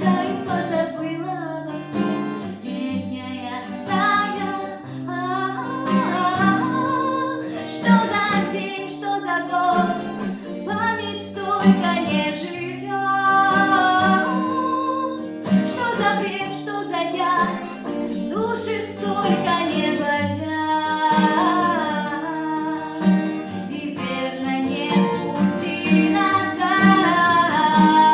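A young woman singing a Russian bard song with acoustic guitar accompaniment, plucked chords under the melody.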